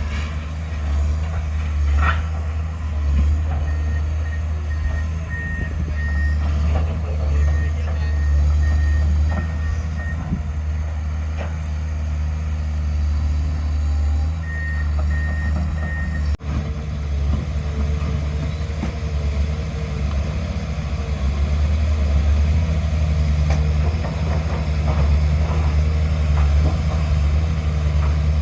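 Diesel engine of heavy construction machinery running steadily, with a reversing alarm beeping about twice a second in three separate runs.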